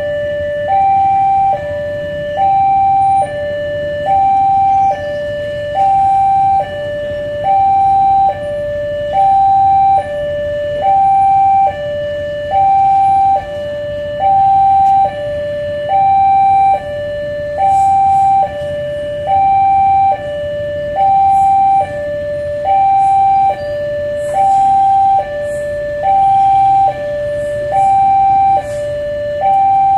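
Two-tone hi-lo siren alternating evenly between a higher and a lower note, each held about three-quarters of a second, over a low vehicle rumble.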